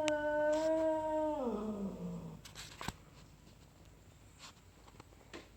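A cat's long, drawn-out yowl (caterwaul), held steady and then sliding down in pitch as it dies away about two seconds in. A few faint clicks follow.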